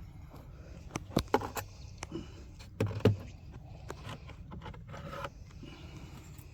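Beehive frames and woodenware being handled: a run of sharp clicks and knocks with some scraping, the loudest knock about three seconds in.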